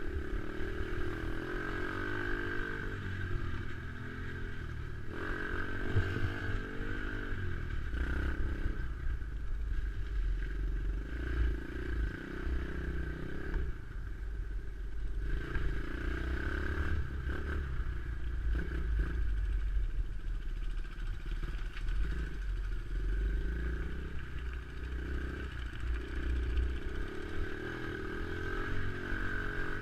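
Dirt bike engine running while being ridden along a trail, its note rising and falling as the throttle changes.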